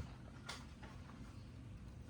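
Quiet room tone with one short click about half a second in and a few fainter ticks.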